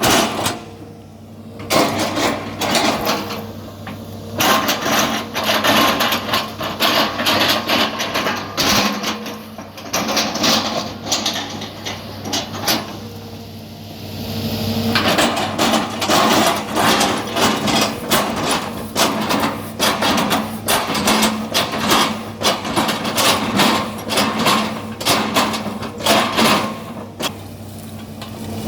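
Excavator engine running steadily under dense, irregular knocking and cracking as the machine chops up oil palm trunks, with two brief lulls.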